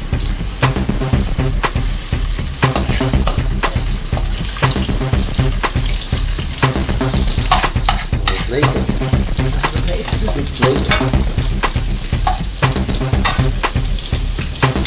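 Squid and sliced onion and peppers sizzling in hot oil in a nonstick frying pan while being stirred, with frequent clicks and scrapes of the spatula against the pan.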